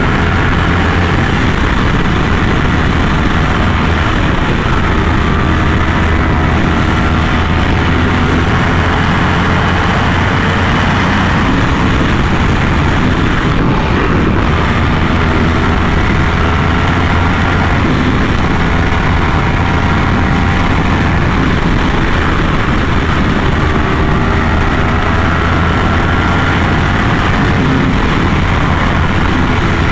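Yamaha R1M's crossplane inline-four running through an SC Project exhaust while riding, the engine note rising and falling gently with the throttle over a steady rush of wind noise.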